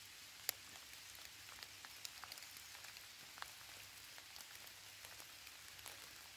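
Light rain, faint: a soft steady hiss with scattered single drops ticking, a few of them sharper.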